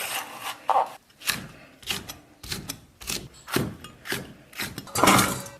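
Kitchen knife cutting chili peppers on a cutting board: regular knocks of the blade on the board, about two a second.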